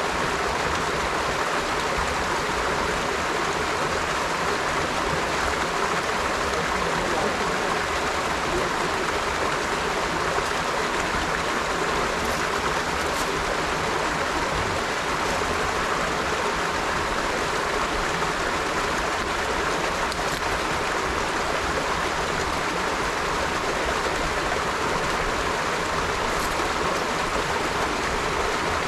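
River water flowing steadily over rocks: a continuous, even rush of running water.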